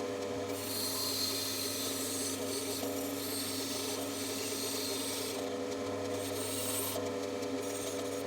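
Bandsaw running and cutting wood: a steady motor hum under the rasp of the blade in the cut, which swells and eases as the wood is fed.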